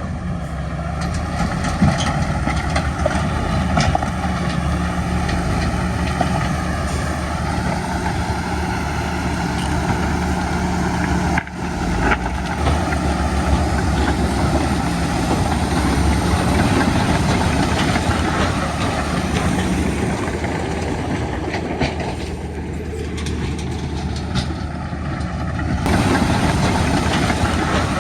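Heavy diesel engines of earthmoving machinery (bulldozer and dump truck) running steadily under work, with a low engine drone and scattered clanks. There is a brief dropout about eleven seconds in.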